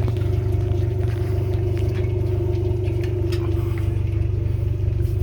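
Engine idling steadily: a continuous low hum with a held droning tone, and a few faint clicks.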